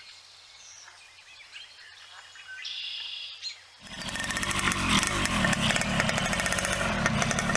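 Faint bird chirps, then about halfway through a small engine comes in suddenly and loudly, running with a fast, even putter.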